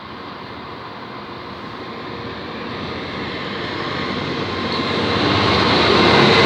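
Freight train approaching on the line, its running noise growing steadily louder.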